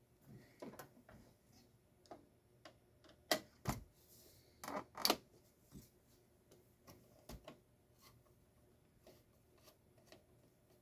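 Scattered small clicks and knocks from parts of a garage door opener being handled during disassembly, with a cluster of louder knocks about three to five seconds in.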